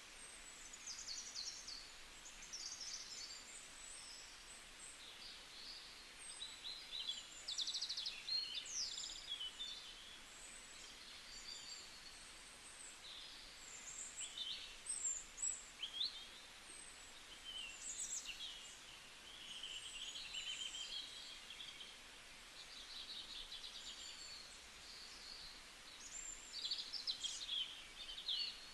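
Small birds chirping and trilling, many short high calls one after another, over a faint steady background hiss.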